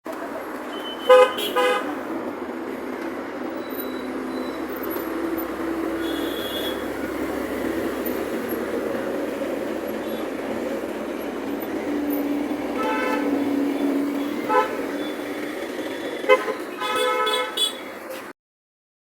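Car horns tooting several times, a couple about a second in and a cluster toward the end, over steady traffic and engine noise.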